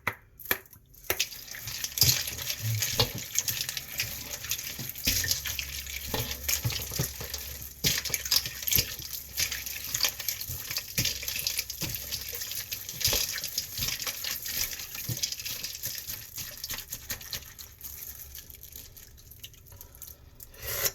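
Cold broth with ice being stirred and mixed in a bowl: liquid sloshing with many small clicks and clinks, going on unevenly and dying down near the end.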